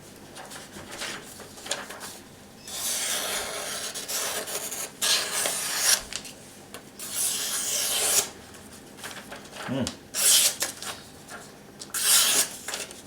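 A SOG Flash 2 knife blade drawn in long strokes along a sharpening surface, a rasping rub. There are about five strokes, each lasting one to two seconds, with short pauses between them.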